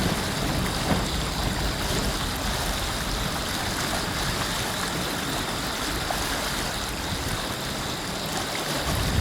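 Wind-whipped lake waves washing and splashing in a steady rushing noise, the water churned rough by a strong gale. Wind buffets the microphone, building again near the end.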